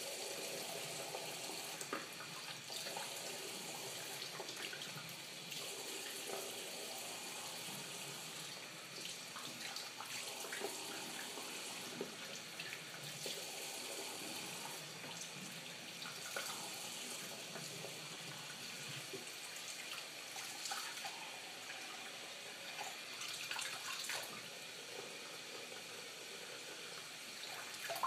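Tap water running steadily into a tub or sink, with small irregular splashes as it is poured over a cat being bathed.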